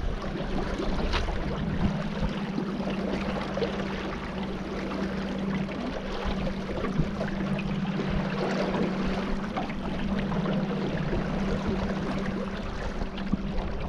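A boat motor running at a steady speed with an even hum, over the rush of water and wind.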